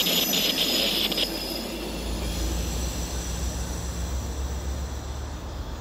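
MARC passenger train moving away over a stone viaduct, its rear-pushing EMD GP39H-2 diesel locomotive and wheels giving a steady low rumble that swells about two seconds in.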